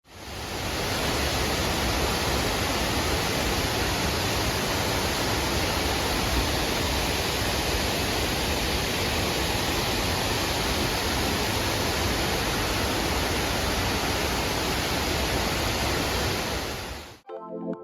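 Steady rushing roar of Shiraito Falls, a wide curtain of many thin cascades falling into a pool. It fades in over the first second and cuts off shortly before the end.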